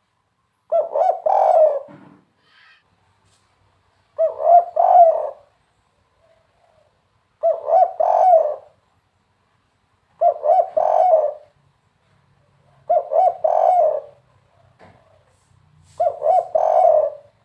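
Spotted dove (tekukur) singing its 'kuk 3' cooing song. Six phrases come at about three-second intervals, each a short run of low, pulsed coos.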